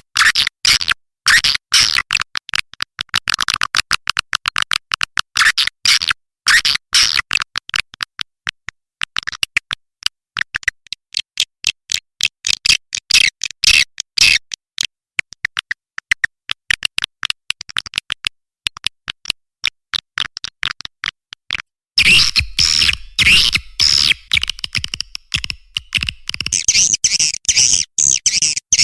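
Swiftlet call track used to lure swiftlets into a nesting house: rapid, dense high chirps and clicks in quick succession. About three-quarters of the way in the track turns louder and fuller.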